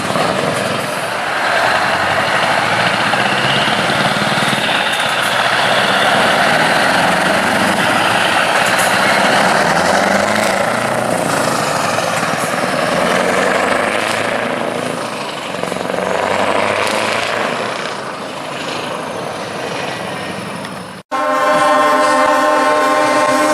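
Truck engines running with a dense noisy rumble. After a brief cut near the end, a loud steady truck air horn sounds.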